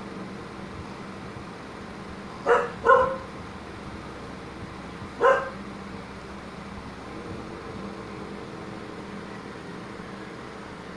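Three short, sharp animal cries, two in quick succession about two and a half seconds in and a third a couple of seconds later, over a steady low background hum.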